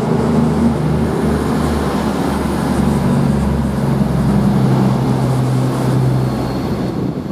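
Underfloor diesel engines of a Class 221 Super Voyager diesel-electric multiple unit running steadily under power as the train pulls away from the platform.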